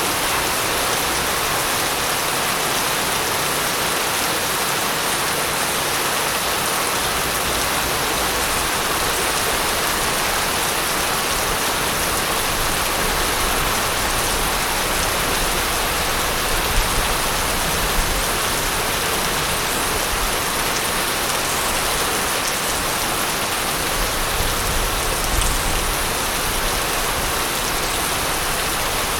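Steady heavy rain pattering on a surface, an even hiss with a few louder drops here and there. A faint low rumble of distant thunder comes and goes.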